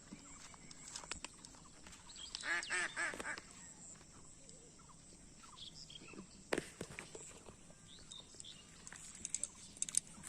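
A quick run of repeated animal calls, like quacking, about two and a half seconds in, over a faint steady high-pitched hiss, with a few sharp clicks and knocks later on.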